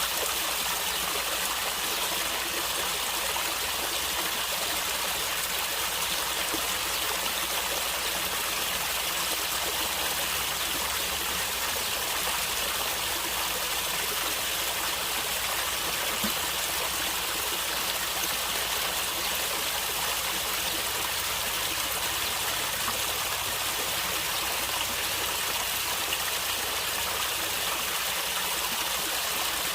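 Natural stream water flowing and gurgling in a steady, even rush.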